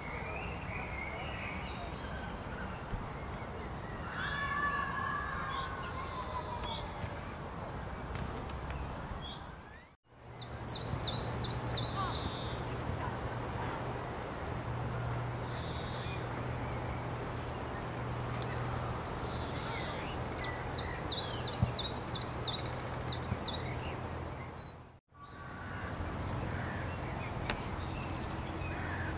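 Wild birds calling in a park: whistled, gliding phrases at first, then two bursts of fast, high, repeated chattering notes. A steady low hum runs underneath.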